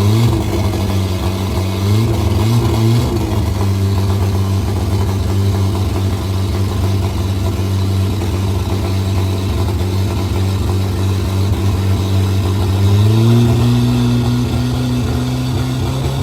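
Yamaha WaveRunner jet ski's two-stroke engine running steadily, blipped briefly a couple of times in the first three seconds, then raised to a higher steady speed about thirteen seconds in.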